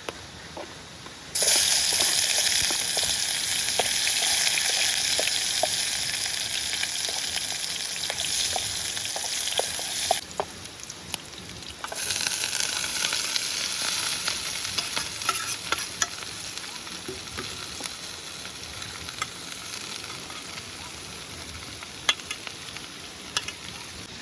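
Food sizzling in hot oil, with scattered pops and crackles. The sizzle starts suddenly about a second in, stops for a couple of seconds around the ten-second mark, then starts again and slowly fades.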